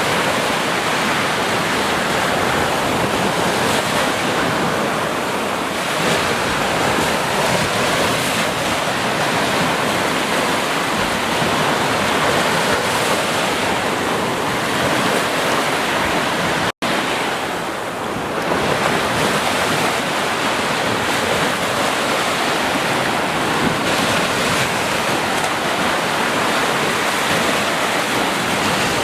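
Ocean surf washing onto a beach in a steady, continuous rush, broken by a split-second gap of silence about seventeen seconds in.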